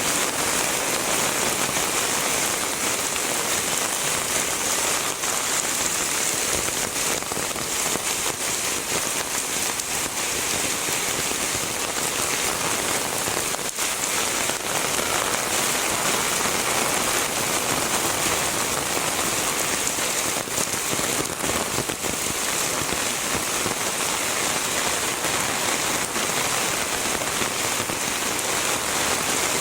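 Heavy rain falling steadily: a dense, even hiss of rain with faint scattered drop hits.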